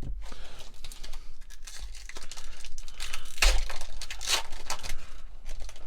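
Foil trading-card booster pack wrapper being torn open and crinkled in the hands, a run of crackling rustles with two louder rips partway through.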